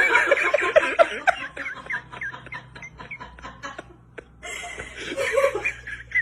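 People laughing in two bursts of quick, repeated chuckles: one at the start that fades after a couple of seconds, and another about four and a half seconds in.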